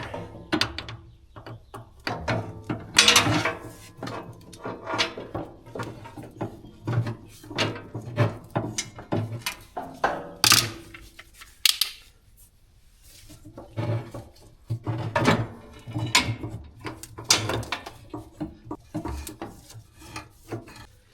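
A hydraulic hose being fished through a skid loader's belly pan with a wire: irregular scraping, rubbing and knocking of hose, fitting and wire against metal, with a short lull just past the middle.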